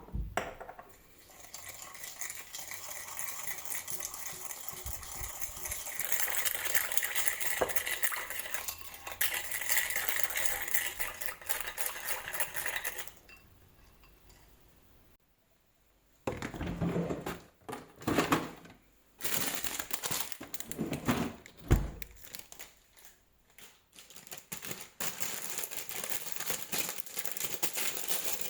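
Kitchen handling sounds: dishes and utensils clinking and scraping. The first dozen seconds hold a dense run of scraping and rustling. After a short lull come separate knocks and clatters.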